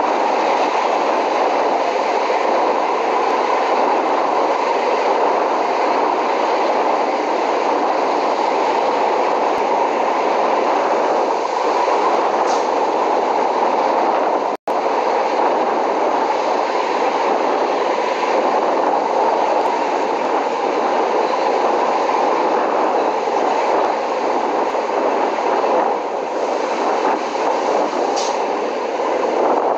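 Train running along the rails, a steady rumble of wheels on track with a couple of brief high wheel squeals. The sound drops out for an instant about halfway through.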